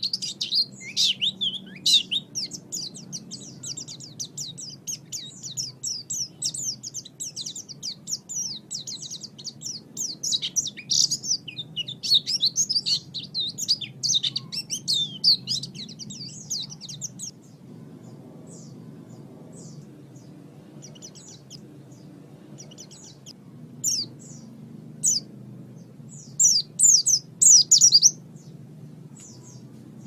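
White-eye (pleci) song: fast, high-pitched twittering that runs on unbroken for about the first half, then thins to scattered short chirps with a few louder bursts near the end. A low steady hum lies beneath.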